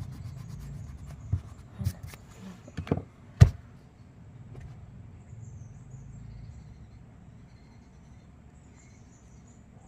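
A few short, sharp clicks and knocks in the first three and a half seconds, the loudest about three and a half seconds in, then a faint low background.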